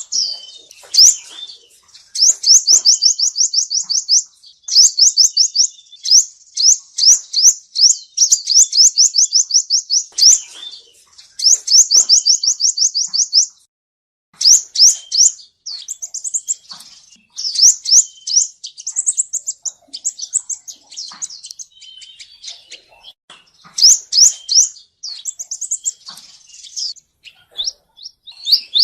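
Male sunbird singing: fast trills of high, quickly falling notes, several a second, in bursts of one to two seconds with short pauses between them. This is the song that is played as a lure for trapping.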